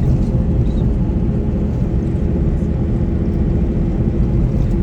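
Steady, loud low rumble of a vehicle under way, with a faint constant hum above it.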